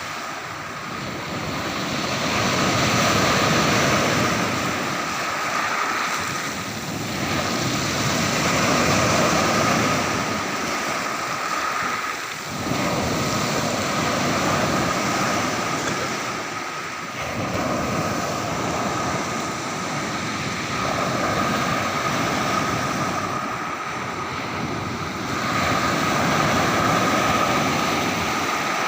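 Sea waves breaking on the shore, surging and ebbing about every five to six seconds, with wind buffeting the microphone.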